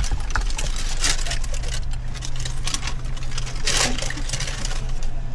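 Car engine idling with a steady low hum, broken by short rustling noises about a second in and again near four seconds.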